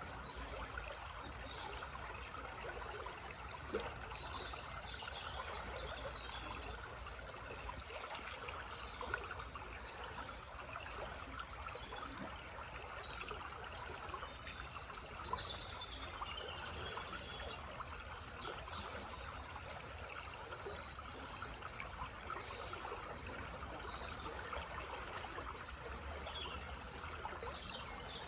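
Small forest stream babbling steadily, with songbirds chirping and singing over it, including a fast run of short notes about halfway through.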